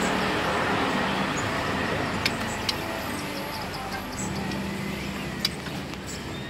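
A motor vehicle's engine running close by over steady street-traffic noise, slowly fading, with a few sharp clicks.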